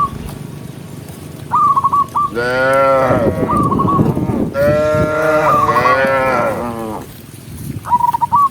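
Cattle mooing: two long moos, the second one longer. Short high chirping calls of a few quick notes come in between them.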